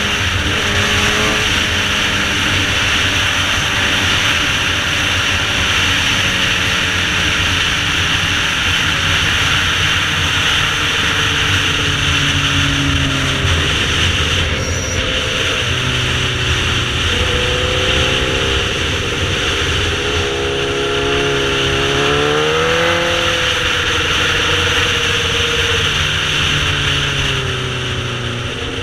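Sportbike engine running at speed, its revs rising and falling over and over as it goes through corners, over a steady rush of wind noise.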